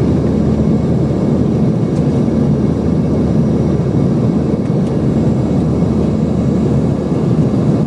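Steady cabin noise of an airliner in flight: engine and airflow noise, heavy in the low range, with a faint steady hum.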